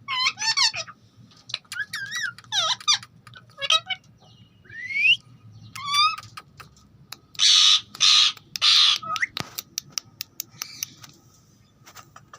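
Ringneck parakeet whistling and chattering in short gliding, warbling notes mixed with clicks, with two louder harsh squawks a little past halfway.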